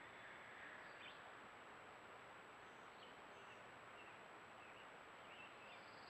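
Faint outdoor background hiss with a few short, faint bird chirps scattered through, over a thin steady high-pitched tone.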